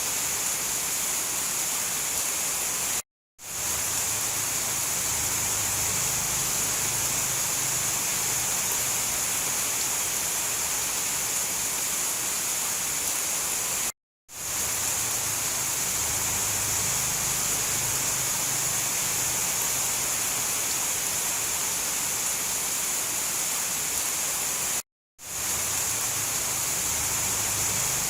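Steady rain hiss from a rain-ambience track. It drops out to total silence for a fraction of a second three times, about eleven seconds apart.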